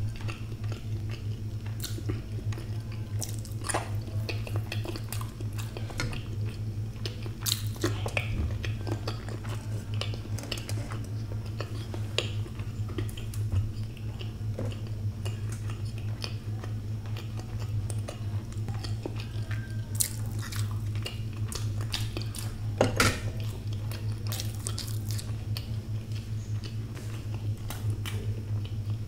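Close-miked chewing and wet mouth sounds of a person eating halved boiled eggs, with scattered short sharp clicks, over a steady low hum.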